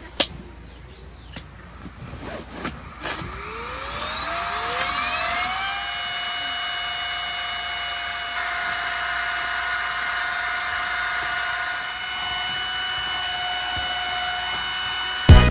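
A small electric motor winds up to speed with a rising whine, after a couple of quick starts, then runs at a steady whir for about ten seconds before cutting out near the end.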